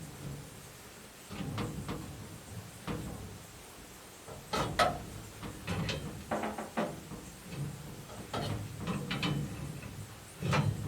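Clinks and knocks of a wrench and metal fittings as the hot water outlet connection on a tankless water heater is loosened, about a dozen short separate taps and scrapes.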